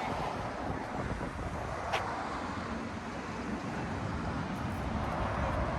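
Steady outdoor vehicle noise, cars running and moving past, mixed with wind on the microphone, with a single short click about two seconds in.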